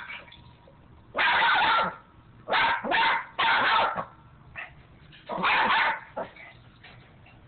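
Yorkshire terrier barking loudly in several harsh bursts with short pauses between them.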